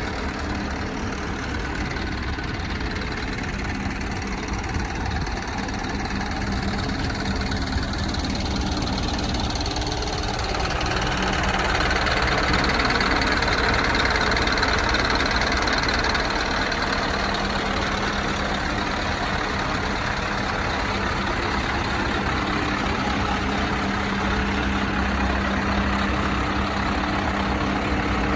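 Scania R560 V8 truck's 16-litre diesel engine idling steadily, with its sound swelling louder for a few seconds about a third of the way in before settling back.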